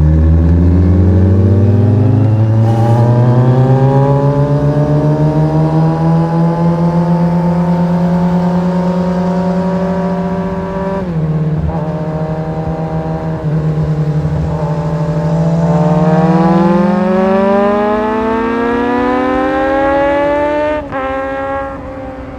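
Kawasaki Z1000 motorcycle's inline-four engine running under way, its pitch climbing at the start and then holding. It dips briefly a little past halfway, climbs again, and drops sharply near the end.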